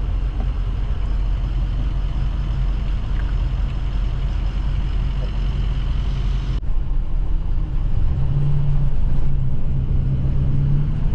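Steady low rumble of a vehicle driving along. About two-thirds of the way through, the hissy upper part of the sound drops away suddenly and a low hum becomes more prominent.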